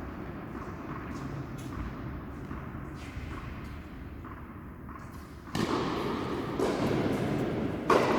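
Sharp knocks of a tennis ball being struck and bouncing during play. Partway through, a loud, even rushing noise comes in, and near the end there is one sharp, loud crack.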